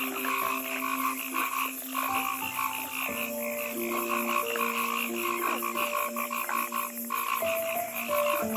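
Frogs croaking in a chorus, a continuous fast, even pulsing, over background music of held notes.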